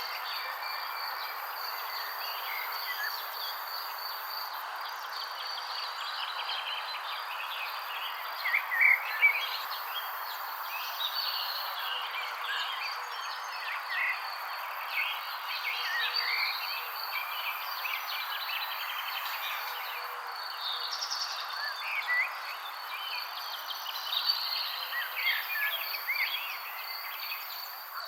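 Birds chirping in short, scattered calls over a steady high-pitched insect trill and a constant background hiss. A few louder chirps come about nine seconds in and again near the end.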